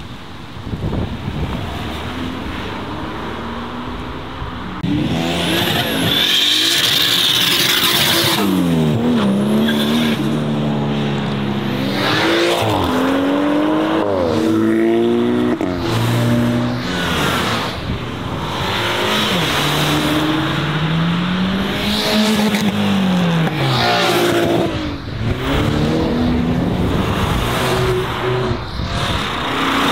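A high-performance car engine revving hard, its pitch climbing and falling again and again from about five seconds in as it accelerates, with tyres squealing early in the loud part.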